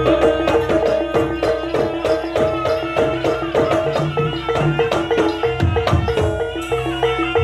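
Jaranan traditional music: a quick repeating figure of pitched struck notes over hand drums and other percussion.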